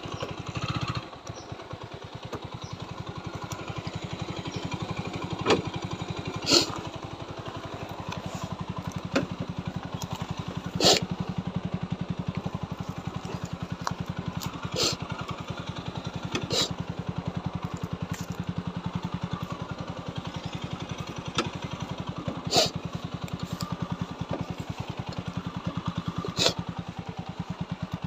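Single-cylinder engine of a TVS Apache 4V motorcycle running steadily at low speed, with sharp knocks and clacks every few seconds.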